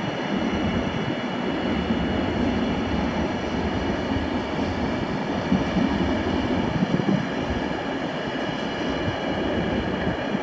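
Container freight train rolling past: steady rolling noise of the loaded container wagons' wheels on the rails.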